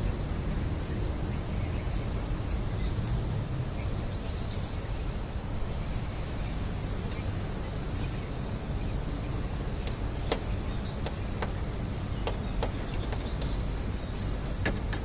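Faint bird chirps over a steady low outdoor rumble, with a few sharp clicks in the second half.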